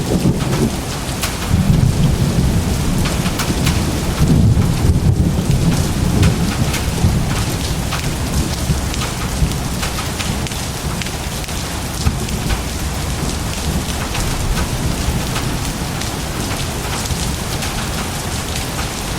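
Thunder rumbling over heavy, steady rain. The rumble swells in the first few seconds and then dies away, leaving the rain hissing and pattering evenly.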